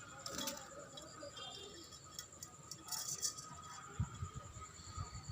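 Budgerigars making faint scattered clicks and a few short, soft high chirps, with a steady thin high whine underneath.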